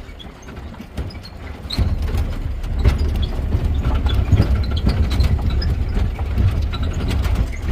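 Rumble of a pickup truck riding over a bumpy road, heard from the open back, with frequent knocks and rattles from the jolts.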